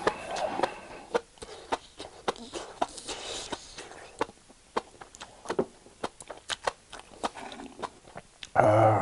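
Close-miked wet chewing and mouth smacking of spicy enoki mushrooms, heard as many sharp, irregular clicks, mixed with metal chopsticks picking through the sauce in a bowl. Near the end comes a short hum from the eater.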